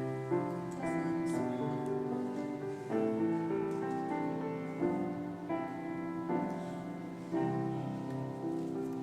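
Piano playing slow sustained chords, a new chord struck every one to two seconds.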